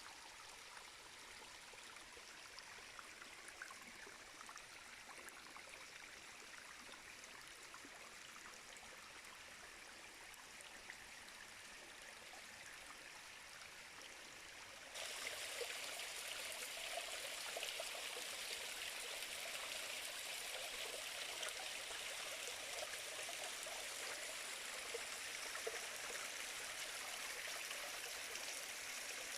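Stream water running steadily with an even rushing hiss, becoming clearly louder about halfway through.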